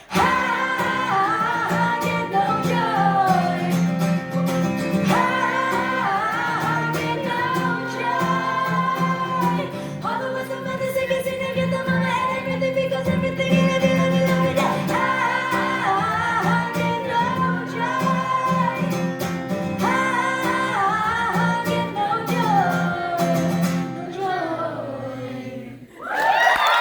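Live band with guitars playing the song's outro while a woman sings wordless, gliding vocal lines over the chords. The music dies away about 25 seconds in, and a loud burst of audience cheering starts right at the end.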